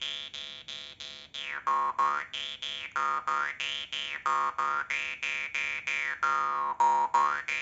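Synthesizer music: a steady pulse of repeated notes, about four a second, with a filter sweeping the tone up and down every couple of seconds.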